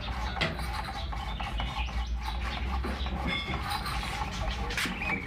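A steady low mechanical hum, with birds chirping and a few scattered clicks and knocks.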